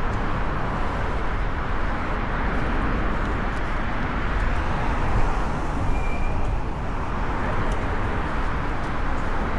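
Steady city street traffic noise, a continuous rumble and wash of passing vehicles, with a brief high squeal about six seconds in.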